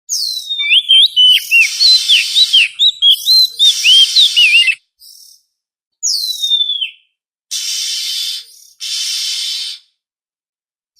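Oriental magpie-robin (kacer) song: a fast run of whistled notes sliding up and down for about five seconds, then one long falling whistle, with harsh hissing notes in between.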